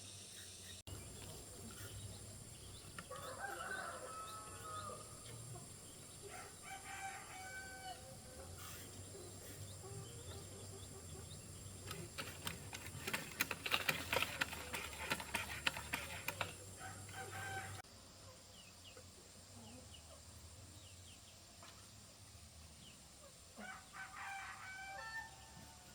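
Chickens calling, with a rooster crowing several times. About halfway through, a quick run of sharp clicks or taps is the loudest sound.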